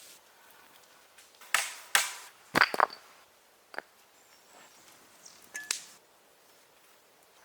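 Wood being struck with a hand tool: about six sharp knocks at uneven intervals, the loudest of them in a quick cluster in the first half.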